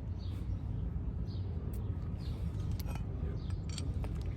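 Steady low background rumble with faint bird chirps now and then and a few light clicks of brake parts being handled.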